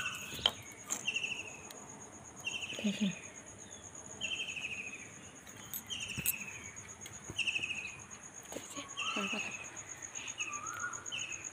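A bird repeating a short, falling trilled call roughly once a second, over a steady high-pitched insect trill. A few sharp knocks come in between.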